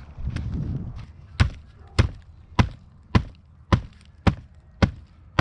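Firewood being chopped: a steady run of about eight sharp wooden strikes, roughly two a second, starting about a second and a half in after some low handling noise.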